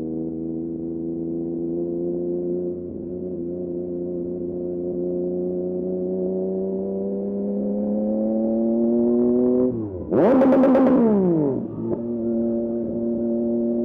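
Yamaha MT-09 SP's inline three-cylinder engine through a Dominator aftermarket exhaust, pulling steadily with revs slowly climbing. About ten seconds in there is a short, louder burst with crackles as the revs drop quickly, then the engine settles back to a steady note.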